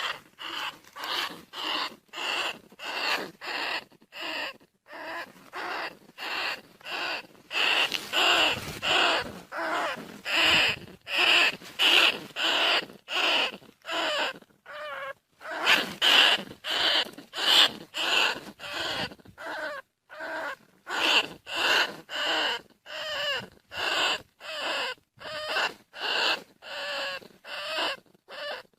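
Bandicoot rat calls, short squealing bursts repeated a little under twice a second with a couple of brief pauses: a call recording played to lure field rats in.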